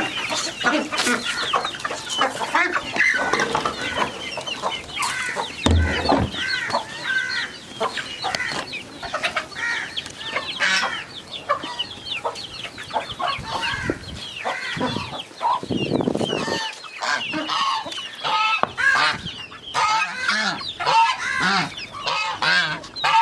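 A flock of chickens clucking, with many short calls overlapping. A low thump about six seconds in.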